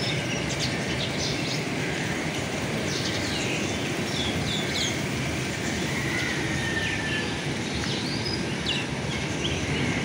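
Birds chirping, many short high calls scattered through, with one longer drawn-out call about six seconds in, over a steady rushing background noise.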